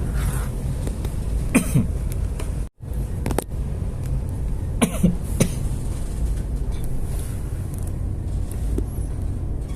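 A person coughing, two short coughs about a second and a half in and two more about five seconds in, over the steady low rumble of the ship's engine. The sound cuts out for a split second in between.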